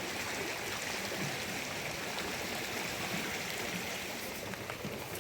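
Steady, even rushing of water with no breaks.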